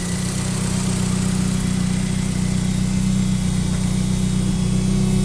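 Lancia Delta's engine idling steadily, running on a newly fitted aftermarket standalone engine management system that still needs tuning.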